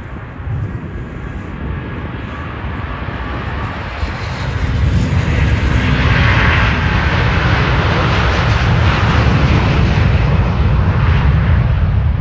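Jet airliner's engines roaring past, swelling about four seconds in and staying loud, over a steady low rumble.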